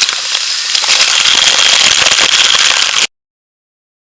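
Waterfall pouring close over the microphone, a dense crackling rush that grows louder about a second in, then cuts off abruptly about three seconds in.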